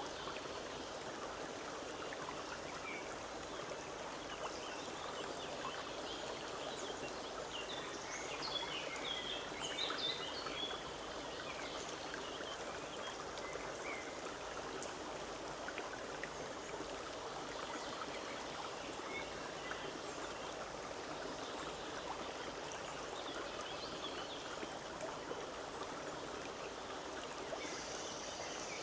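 Forest brook running and trickling over stones in a steady rush of water, with a few short bird chirps about a third of the way in and again near the end.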